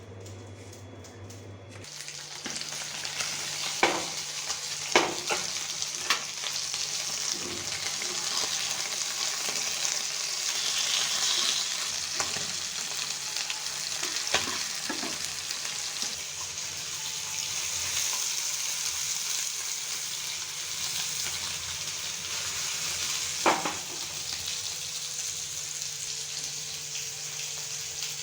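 Food frying in hot oil in a pan: a steady sizzle that starts about two seconds in, with a few sharp clinks of a utensil against the pan as it is stirred.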